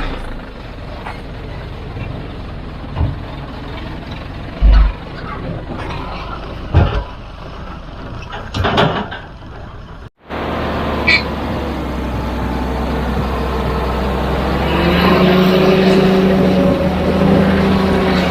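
Diesel heavy-equipment engine noise, with several short knocks in the first half. After a cut about ten seconds in, a diesel engine runs steadily and grows a little louder.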